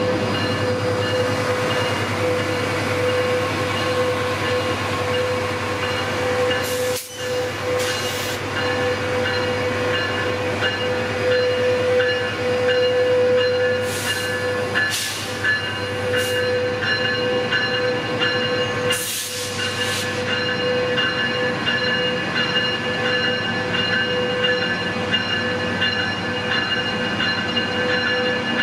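A Metrolink train with an EMD F125 diesel locomotive in its consist passes slowly, giving a steady engine drone with a few steady tones. Short hisses of air break in several times.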